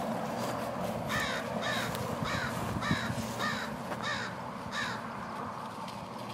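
A bird calling a run of seven short calls, evenly spaced at about one every 0.6 s, starting about a second in.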